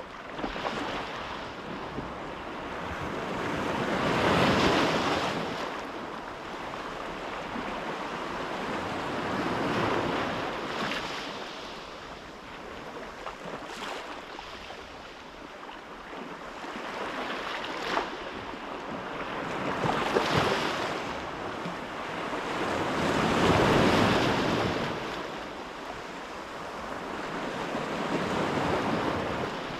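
Sea waves washing in, swelling and falling back every five or six seconds, with wind blowing.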